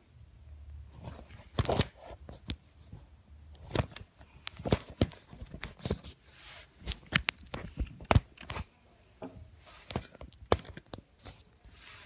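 Handling noise from a camera being fitted onto a stand: irregular clicks, knocks and rustling, with no steady pattern.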